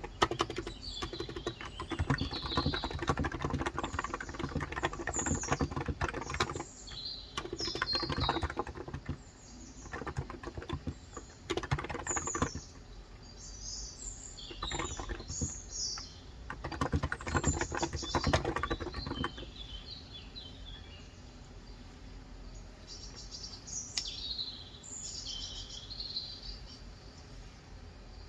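Fast bursts of typing on a Cox Endeavour 35 g electrostatic capacitive (Topre-style) keyboard, thinning out after about two-thirds of the way through. Small birds chirp outside throughout.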